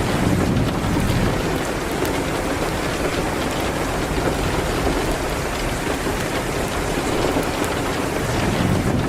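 Steady rain hitting a window, mixed with the faint scattered crackles of a wood fire. A low rumble swells just after the start and again near the end.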